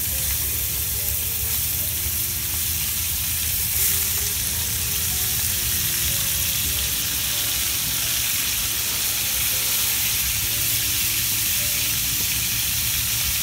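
Prawns frying in hot oil in a nonstick pan, a loud steady sizzle as they are laid in one by one. The sizzle flares briefly about four seconds in.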